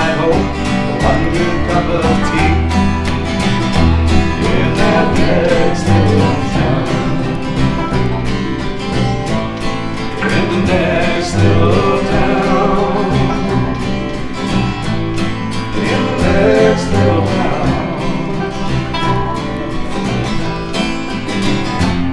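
Acoustic folk band playing a country-bluegrass tune: guitar over a steady bass line, with a lead line of sliding notes.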